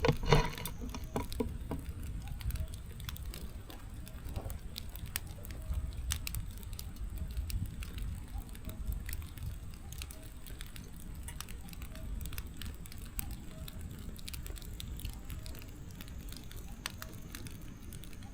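Firewood burning in a fireplace: scattered sharp crackles and pops over a low, steady rush of flames, with a louder burst of crackling right at the start.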